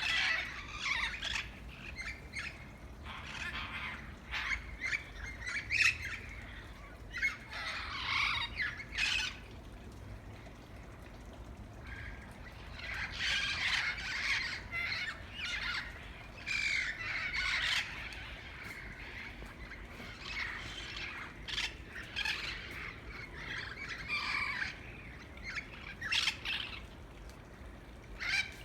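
A flock of green, red-headed parrots squawking in bouts of harsh, overlapping calls, with short quieter spells in between.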